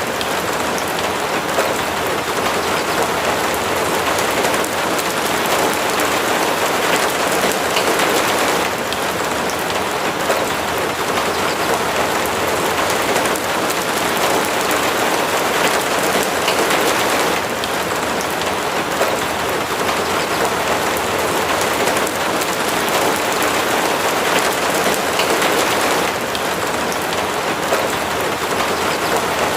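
Steady rain falling hard, a dense even wash of drops that swells slightly a few times.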